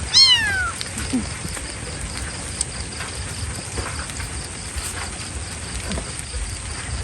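A kitten meows once, a loud cry that falls in pitch, near the start. After it comes a steady hiss of rain.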